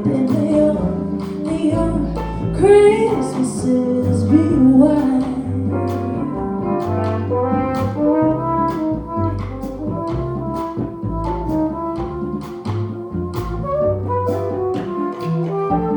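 Live small jazz band playing: a brass or reed horn solo line over a stepping upright bass and drums with cymbal strokes.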